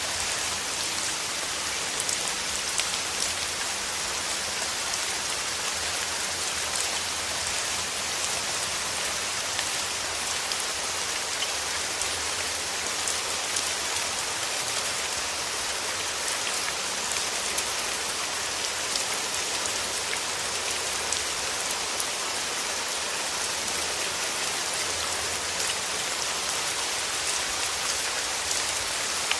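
Steady rain: a dense, even patter of raindrops with no breaks or changes.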